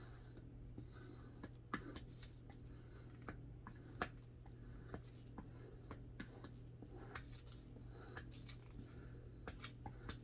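Faint scattered clicks and light taps of small objects being handled, a few sharper ones among them, over a steady low hum.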